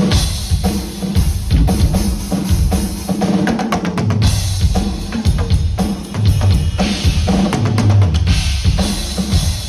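Full drum kit played in a busy groove during a sound check: kick, snare and toms hit rapidly under a wash of cymbals, the drummer's last run for the engineer before the drums are signed off.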